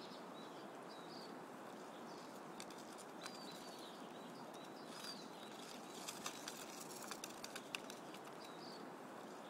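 Faint outdoor ambience: a steady background hiss with small birds chirping now and then, and a few light ticks about two-thirds of the way in.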